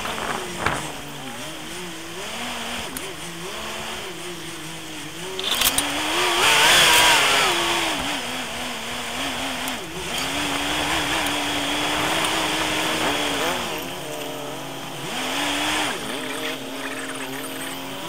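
A four-wheel drive's engine revving up and down as it crawls a rocky dirt track, loudest and highest in pitch about six to seven seconds in. There is a sharp knock about a second in.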